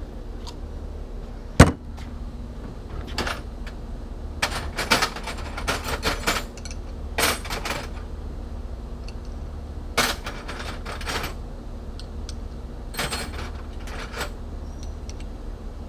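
Hand tools clinking and rattling against the metal of an outboard motor's lower unit while working on tight fasteners, with one sharp knock about one and a half seconds in and clusters of clicks after it.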